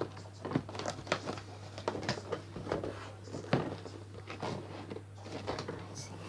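Unboxing a bird feeder set: irregular light clicks, taps and rustles as the cardboard box and its packed parts are handled, over a steady low hum.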